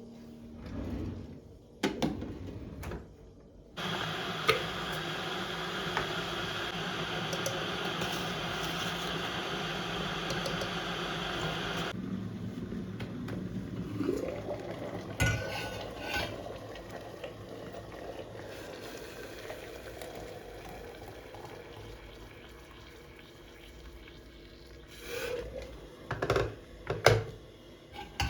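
Kitchen work: a steady rush of water runs for about eight seconds and stops abruptly, then quieter handling sounds follow, with dishes and utensils clinking and knocking near the end.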